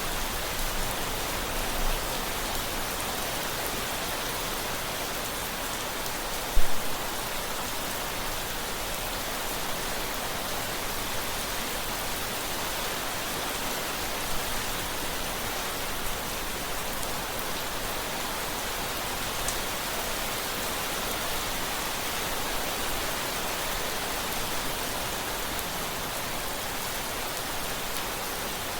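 Steady rain falling, an even, dense hiss with no let-up. About a quarter of the way in there is one brief, loud, low thump.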